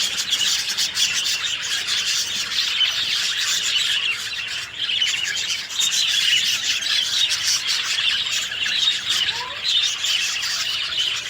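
A dense chorus of many small birds chirping and chattering together, with short calls overlapping. A few lower, gliding calls stand out near the end.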